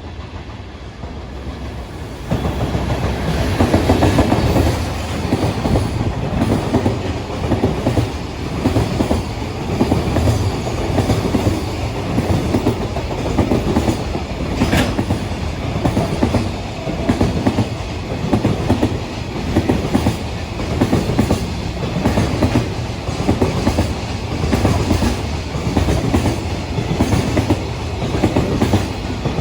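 A long train passing close by at speed, its wheels clattering over the rail joints in a steady rhythm of about one beat a second. A brief faint higher tone sounds about halfway through.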